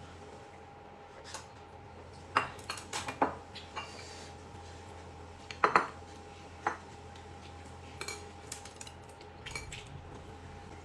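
Eating utensils clinking and tapping against bowls and plates during a meal: scattered light clinks, busiest about two and a half to three seconds in and again near six seconds.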